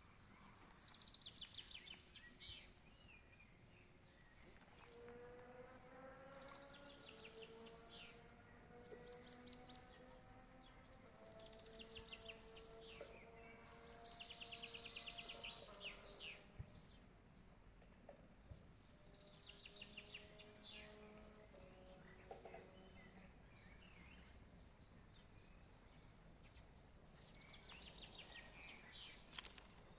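Birds singing faint, repeated rapid trills every few seconds over a soft background hiss. Faint held tones hum underneath for much of the middle of the clip.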